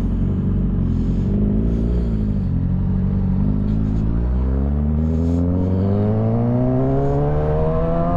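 Motorcycle engine running under way, holding a steady pitch at first, then accelerating with its pitch rising smoothly from about four seconds in.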